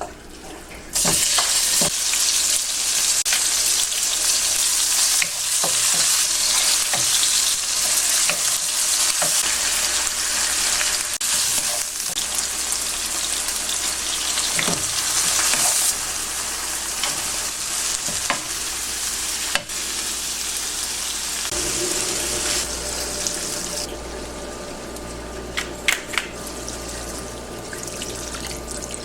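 Food sizzling loudly as it is fried and stirred in a pan, with occasional clicks of a utensil against the pan. The sizzle starts suddenly about a second in and drops to a quieter sizzle near the end.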